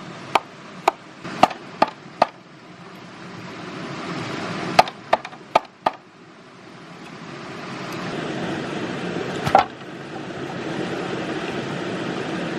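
Sharp knocks of a tool striking wood: a quick run of five, a pause, a run of four, then one louder strike later on, over a steady rushing background.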